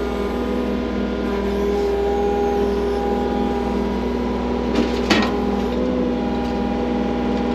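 Skid loader engine running steadily under load, with a couple of sharp clanks about five seconds in.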